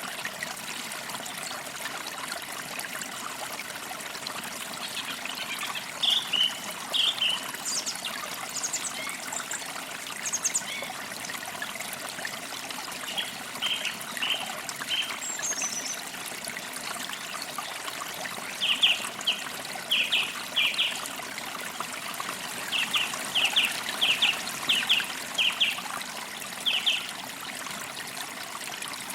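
Creek water trickling steadily, with birds chirping over it in short runs of quick high notes, louder and more frequent in the second half.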